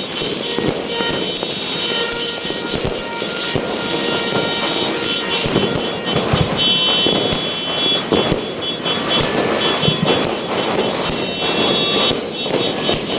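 Fireworks going off in a dense, continuous barrage of crackles and pops, with steady high tones sounding over it.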